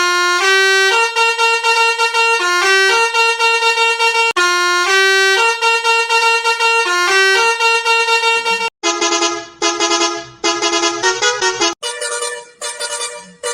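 A musical vehicle horn playing a short tune note by note with a buzzy, many-overtone tone, the tune repeating. About nine seconds in it switches to another version of the tune with a brighter tone and short breaks between the notes.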